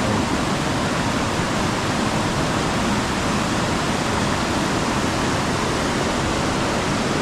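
Steady rushing of water from a waterfall in strong flow, swollen after the wet season.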